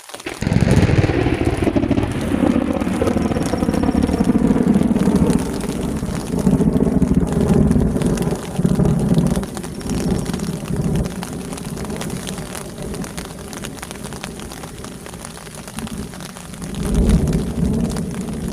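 Close thunder: a sudden crack, then long deep rolling rumbles that slowly fade and swell again near the end, over steady heavy rain.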